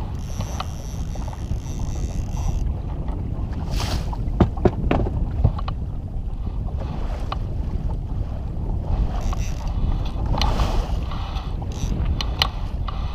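Wind buffeting the microphone in a steady low rumble, with scattered short knocks, a cluster of them about four to five seconds in.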